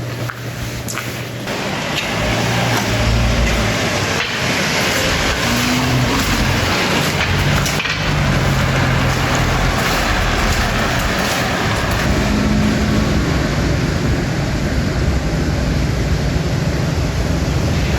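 A motor vehicle's engine running steadily nearby over a loud, even hiss, with the engine's low tone shifting in pitch a few times.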